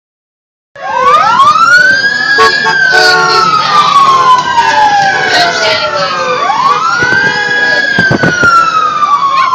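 Several emergency-vehicle sirens wailing together, starting suddenly about a second in. Each sweeps quickly up in pitch and then slides slowly down, twice over, with a few sharp knocks in between.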